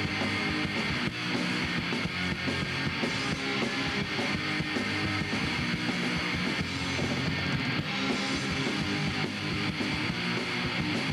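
A punk rock band playing live, an instrumental stretch between vocal lines: distorted electric guitar strumming over bass and drums.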